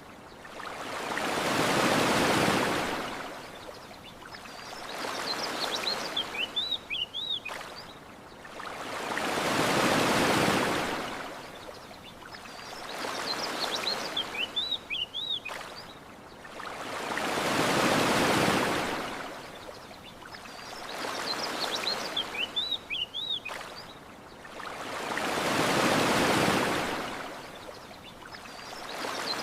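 Ocean waves washing onto a shore in slow swells that rise and fall on a regular cycle of about eight seconds, a big swell followed by a smaller one. Short high bird chirps sound in the lulls between swells, repeating in the same pattern each cycle.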